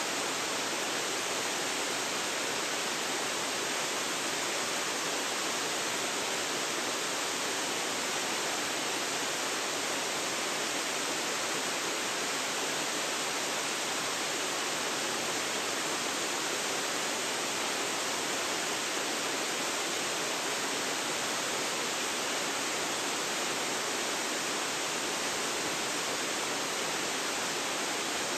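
Waterfall: water falling steadily into its pool, an even rushing hiss with little low end and no break or change.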